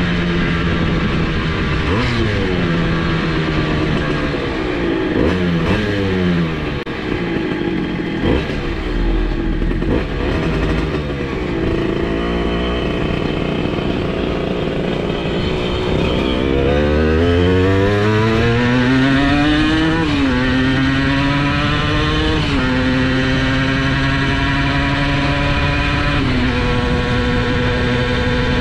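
Simson S51's two-stroke single-cylinder engine, bored out to 85cc, ridden hard: the revs rise and fall several times with gear changes, then climb in one long rising pull about halfway through and hold high and steady, with small steps in pitch at the later shifts.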